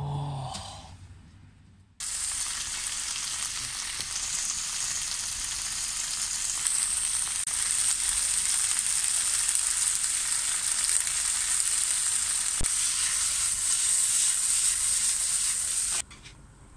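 Sliced potatoes frying in a pan with a steady sizzle. It starts abruptly about two seconds in and cuts off abruptly near the end.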